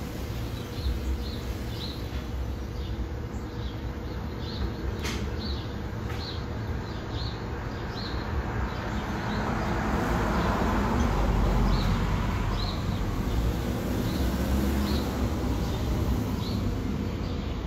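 A bird chirping over and over, about two short chirps a second, over a low rumble like passing traffic that swells about nine seconds in and eases off near the end.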